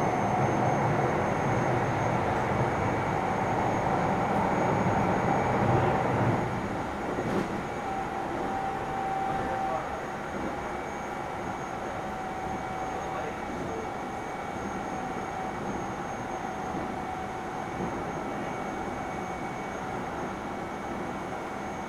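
Keio 7000 series electric train running, heard from inside the car: steady rolling and wheel-on-rail noise with faint steady motor tones. The heavier low rumble drops away about six seconds in, and the running then settles quieter.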